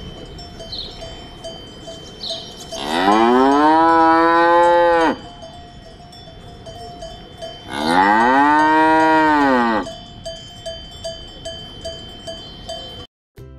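A cow mooing twice, two long moos of about two seconds each that rise in pitch at the start, hold, then drop at the end. A cowbell on its collar tinkles steadily between the calls.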